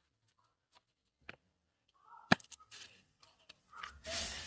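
Kitchen handling noises: one sharp click a little over two seconds in, a few light clicks and knocks, and a short rustle near the end.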